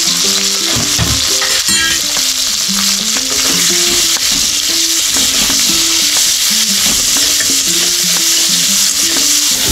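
Prawns sizzling as they fry in hot oil in an aluminium kadai, turned now and then with a metal spatula. A steady melody of background music plays underneath.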